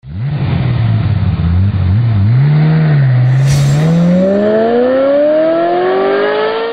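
Car engine revving up and down at low pitch, then accelerating with a steady, long rise in pitch. A short hiss comes about three and a half seconds in.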